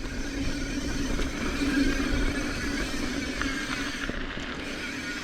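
Mountain bike rolling along a dirt trail: steady tyre and drivetrain rumble with a constant buzz.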